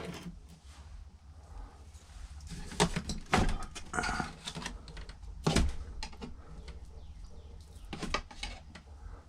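Scattered clicks and knocks of a plastic karaoke machine housing being handled and pried at during disassembly, a cluster a few seconds in and a louder knock past the middle.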